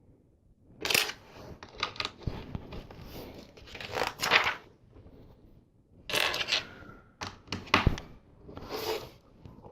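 Plastic LEGO pieces being handled and pressed together: irregular bursts of rustling and rubbing with scattered clicks, one sharp click about eight seconds in.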